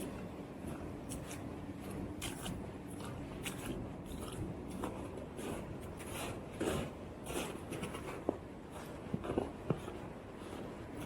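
Footsteps crunching through fresh snow at a walking pace, a crunch with each step.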